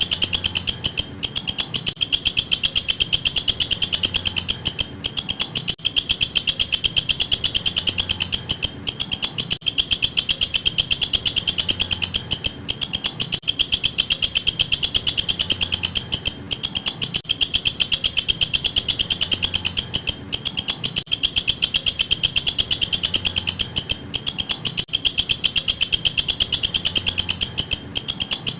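Walang kecek katydid stridulating: a loud, high-pitched, very fast trill of rapid clicks, broken by short pauses every couple of seconds.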